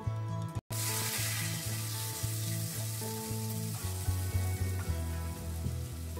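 Cubed potatoes sizzling in hot mustard oil in a steel kadhai and stirred with a slotted spoon; the sizzle is sharpest just after they go in, about a second in, and slowly eases off. Soft background music with steady notes plays underneath.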